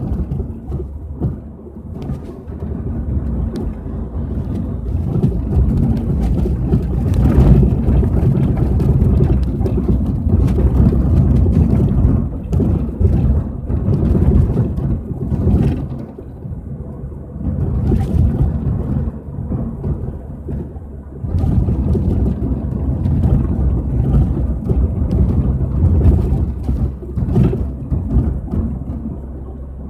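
Peugeot 406 on the move: a steady low road rumble that swells and dips, with irregular sharp knocks scattered through it. The knocks are the rear-end knock being tracked down.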